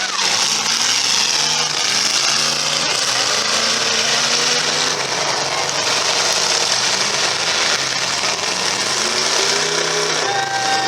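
Several demolition derby cars' engines revving and running at once, their pitches rising and falling over each other.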